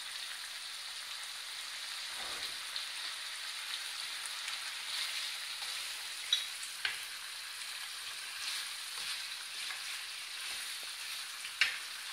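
Chicken pieces sizzling in their own juices in a non-stick frying pan over a raised gas flame, the liquid being cooked off. A steady hiss, with a few sharp clicks as a wooden spoon stirs and turns the pieces, the loudest near the end.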